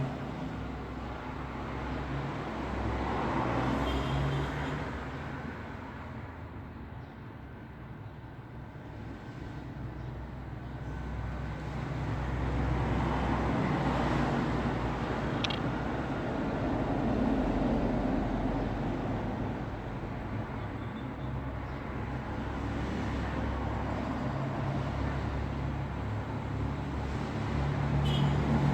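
Road traffic: vehicles passing one after another over a steady low rumble, each pass swelling and fading over a few seconds.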